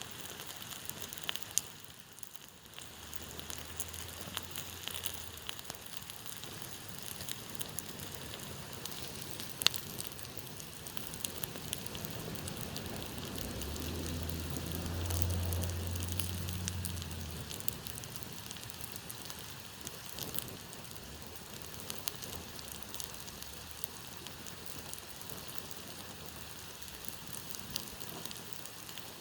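Wood campfire crackling and hissing, with frequent small pops and one sharper snap about ten seconds in. A low hum comes in briefly early on and again, louder, around the middle before fading.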